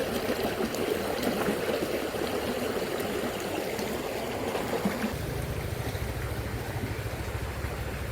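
Shallow river current flowing fast over the riverbed, a steady rushing of water. About five seconds in, a steady low rumble joins underneath.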